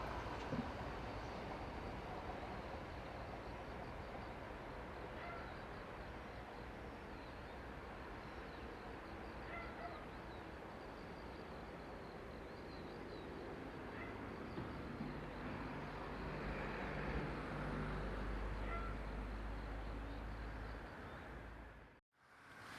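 Outdoor ambience: a steady low background hum with scattered faint, short bird calls. A low rumble builds in the later seconds and then cuts off abruptly near the end.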